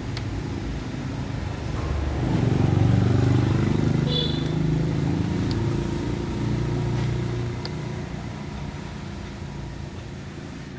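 A motor vehicle's engine running, growing louder about two seconds in and then slowly fading, like a vehicle passing by.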